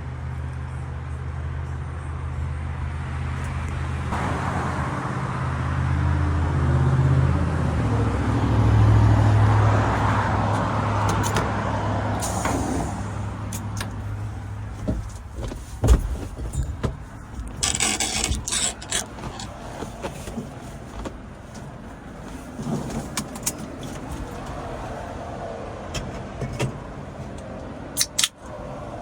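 Twin-turbocharged Mitsubishi Mighty Max pickup engine running while driving, building to its loudest about nine seconds in and then easing off. The later part has scattered clicks and knocks and a brief hiss about two-thirds of the way in.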